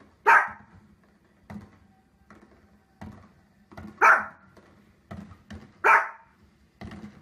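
A small dog barks sharply three times, about four seconds apart and then two seconds apart, with fainter short thuds in between.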